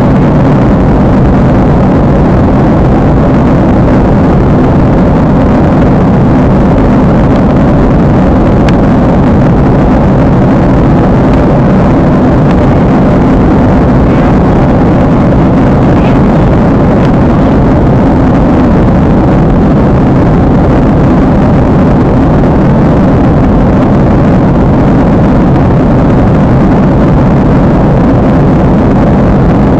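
Steady in-flight cabin noise of an airliner: an even, loud hum of engines and rushing air, unchanging throughout.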